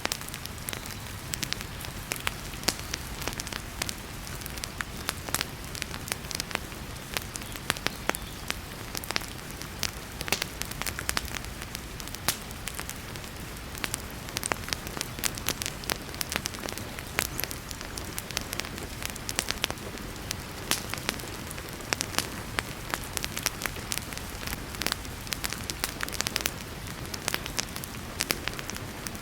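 Wood fire crackling with frequent sharp pops and snaps, over a steady hiss of heavy rain.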